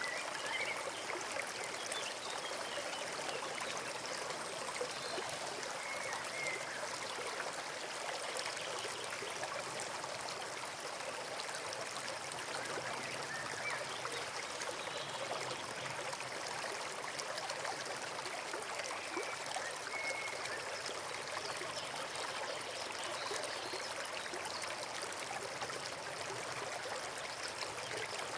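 Forest stream flowing steadily: a continuous babble and trickle of running water.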